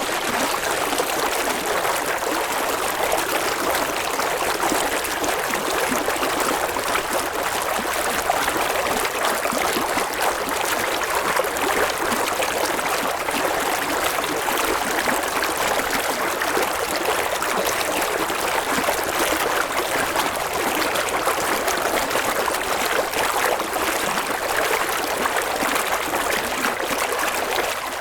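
Running water of a stream flowing steadily, an even rushing and trickling with no rhythm of waves.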